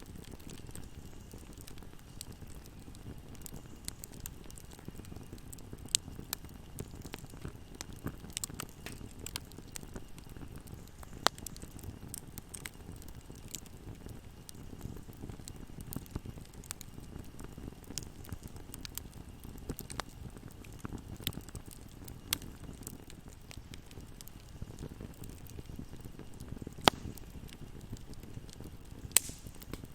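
Wood fire burning in a fireplace: a low steady rush of flames under scattered sharp crackles and pops, the loudest two near the end.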